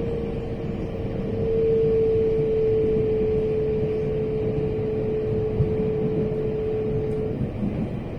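Train running along the line: a steady low rumble with a single steady whine that grows stronger about a second and a half in and cuts off shortly before the end.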